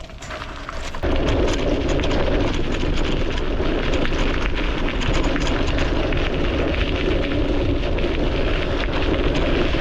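Bicycle riding over a rough, loose path, heard from a camera mounted on the front of the bike: a steady rumble and crackle of tyres and rattling mixed with wind on the microphone, coming in about a second in.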